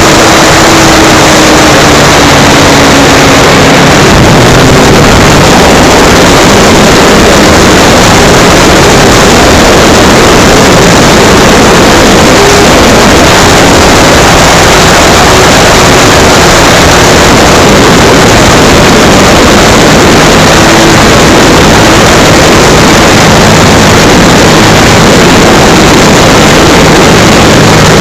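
Electric motor and propeller of an RC model Cessna 182 running in flight, heard from a camera mounted on the plane: a loud, steady rush of propeller and air noise with a faint motor tone underneath.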